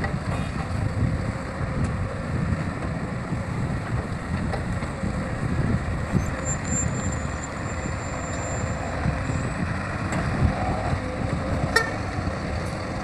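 Heavy diesel machinery running steadily with a low, uneven rumble, with a sharp click near the end.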